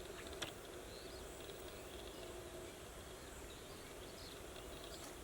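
Faint, scattered bird chirps over a steady hush of rural background noise, with one sharp click about half a second in.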